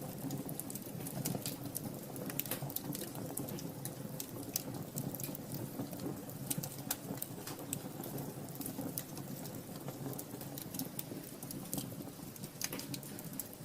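Fire burning in a fireplace: many irregular crackles and pops over a steady low rush of flame.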